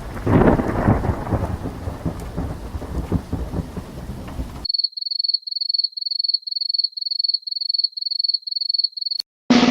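Thunder sound effect: a loud crack about half a second in, then rolling rumble over rain noise, cut off abruptly after about four and a half seconds. Then a rapid series of short, high electronic beeps, about three a second, ends with a click, and a drum effect starts at the very end.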